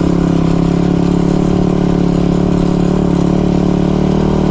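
ATV (quad) engine running at a steady, unchanging speed under throttle while being ridden.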